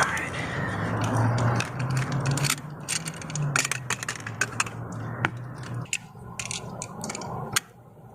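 Tools and small metal parts clicking, rattling and scraping during hand work, with a low hum from about a second in until near six seconds.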